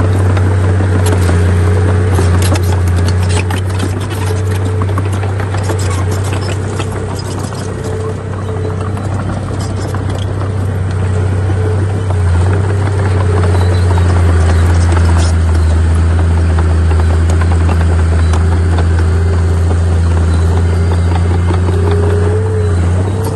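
Bulldozer's diesel engine running steadily with a deep drone, with rattling and clanking over roughly the first half.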